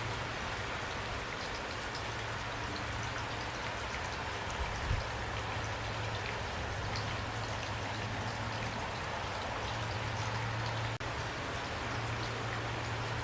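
Steady rain falling, with scattered individual drops ticking on a surface over a steady low rumble. The sound cuts out for an instant about eleven seconds in.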